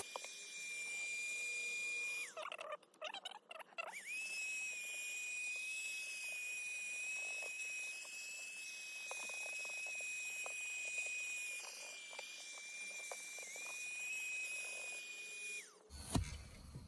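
Cheap cordless mini handheld vacuum running with a steady high-pitched whine while cleaning a car footwell. It breaks off and falls in pitch about two seconds in, picks up again, has scattered light ticks in the middle, and winds down as it is switched off near the end.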